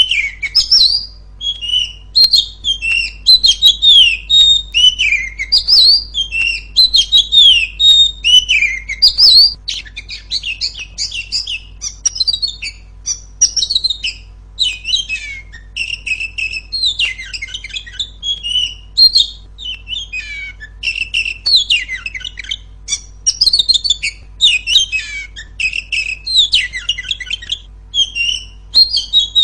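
Oriental magpie-robin (kacer) singing loudly and without pause: a rapid string of clear whistled phrases, many slurring downward, giving way about a third of the way in to denser, quicker chattering notes.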